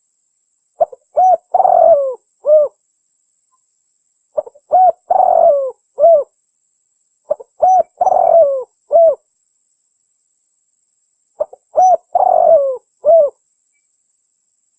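A terkukur merah dove cooing: four identical phrases about three to four seconds apart. Each phrase is a short opening note, a few quick arched coos, one long coo that falls in pitch, and a final coo.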